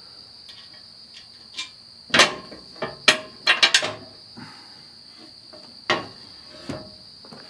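Steel hardware clinking and knocking: carriage bolts, washers and nuts handled against the steel channel iron during disc harrow assembly. A quick run of sharp metallic strikes about two to four seconds in, then two more single knocks later.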